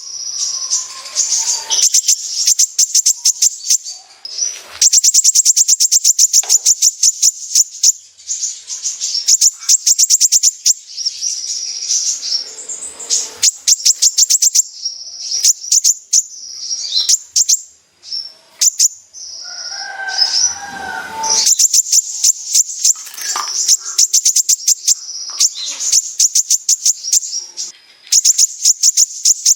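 Kolibri ninja (a sunbird) singing in rapid, high-pitched chattering trills, the 'besetan' song: long runs of fast repeated notes broken by short pauses, with a lower, busier phrase about twenty seconds in.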